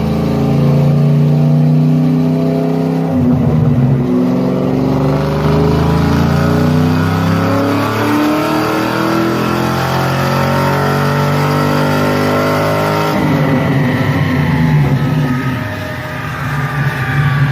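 Chevy pushrod engine running steadily, its note shifting about three seconds in and again near thirteen seconds. The owner doubts the engine has another grand left in it.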